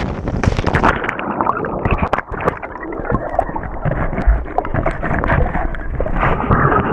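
Water splashing and churning at a waterfall, with many short knocks and a low rumble on the microphone.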